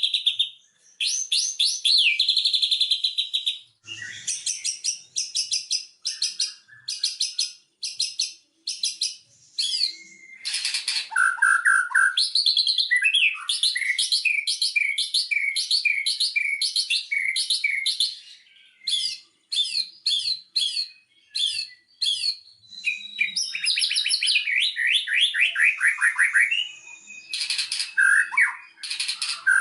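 White-rumped shama (murai batu) singing a long, varied song of fast chattering runs, quickly repeated notes and clear whistled glides. It breaks off briefly a few times and starts again.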